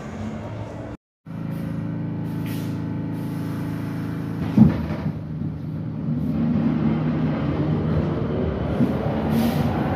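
Train running with a steady hum, then picking up speed: from about six seconds in the hum turns into a whine that climbs in pitch. A short, sharp, loud sound comes about halfway through, and the sound cuts out briefly about a second in.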